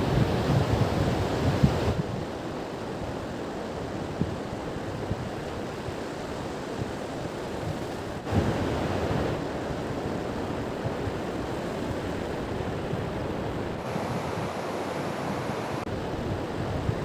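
Sea surf washing on the beach with wind on the microphone, gusty in the first couple of seconds. The sound shifts abruptly in level a few times.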